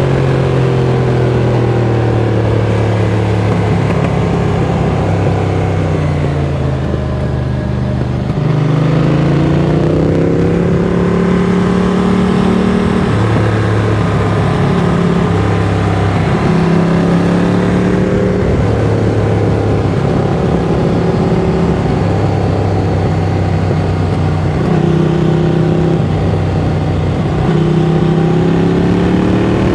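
Ducati Monster 695's air-cooled L-twin through a Mivv X-Cone aftermarket exhaust, running under way with the revs rising and falling as the rider works the throttle and gears. The note drops briefly about seven seconds in, then picks up again in a rising pull.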